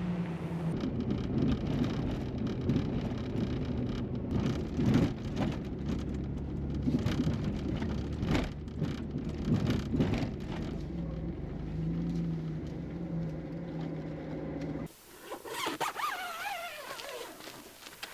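Jeep Liberty driving, its engine running steadily under irregular crackling tyre and road noise. About fifteen seconds in, the sound cuts suddenly to a quieter passage with wavering high-pitched tones.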